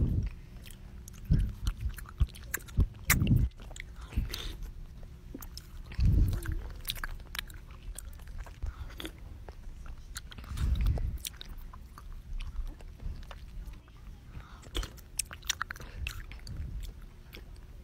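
Close-up ASMR mouth sounds of chewing popping boba: many small wet clicks and pops, with a few dull thumps.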